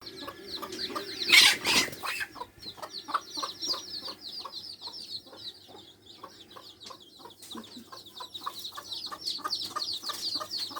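A brood of newborn chicks peeping continuously in high, falling chirps, over short low clucks repeated two or three times a second, typical of a mother hen. A brief loud noise about one and a half seconds in.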